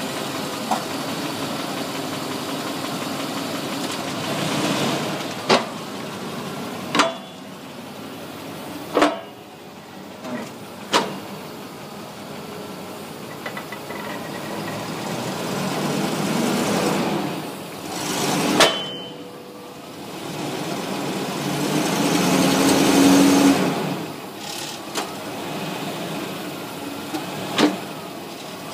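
1999 Range Rover running, its engine hum rising and falling a few times, with about half a dozen sharp knocks scattered through it; this is the noise the owner hears from the rear of the vehicle, its cause unknown.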